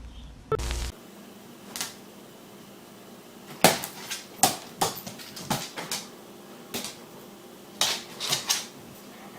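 A series of irregular sharp taps and knocks, about a dozen over several seconds, some in quick pairs.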